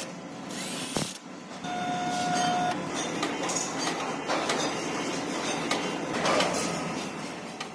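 Factory machinery running: a steady mechanical noise with scattered clanks, and a short steady tone about two seconds in.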